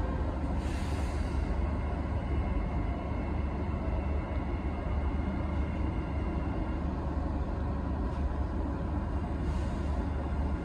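KTM Skypark Link electric commuter train heard from inside the passenger car as it rolls slowly along an underground station platform: a steady low rumble of wheels and running gear.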